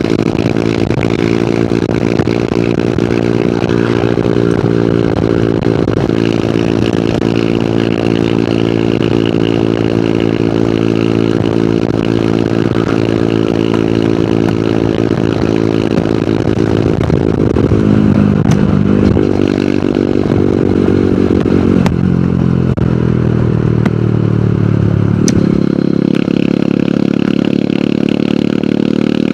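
Hero Hunk's single-cylinder four-stroke engine at a steady cruise, heard from the rider's seat. A little past halfway the engine note wavers and drops as the rider shifts, then climbs as the bike accelerates and settles back into a steady cruise near the end.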